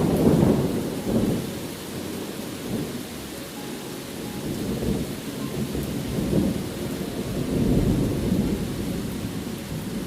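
Steady rain with rolling thunder: a loud rumble right at the start, then more rumbles swelling and fading in the middle and again near the end.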